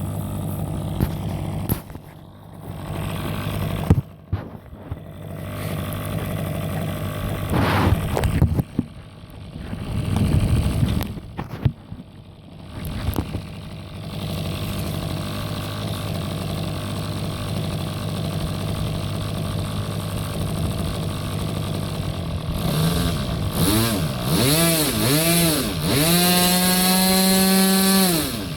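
R/C model airplane engine idling steadily, then blipped up and down several times and held briefly at high revs before dropping back toward idle near the end.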